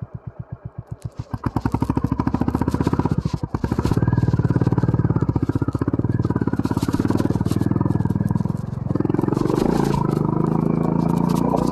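Honda CB350 RS single-cylinder engine ticking over with slow, distinct beats, then opened up about a second in and pulling at higher revs. It eases off briefly about three and a half seconds in and again near the end, and otherwise runs steadily under load.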